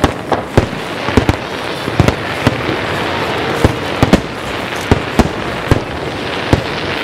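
Rapid barrage of aerial firework shells bursting, about sixteen sharp bangs at uneven intervals, some in quick pairs, over a steady hiss.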